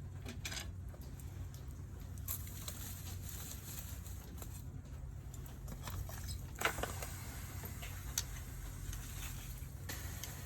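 Campfire crackling, with irregular sharp pops, the loudest about two-thirds of the way through, over a steady low rumble.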